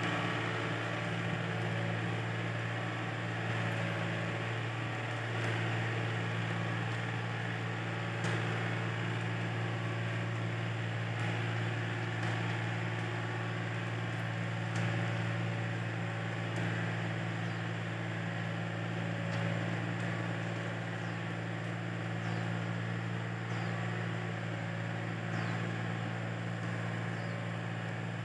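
Tractor engine running at a steady speed, a low even drone, as the tractor works to climb a slippery slope.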